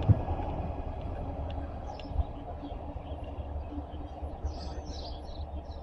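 Low steady rumble, with a few faint high chirps in the second half.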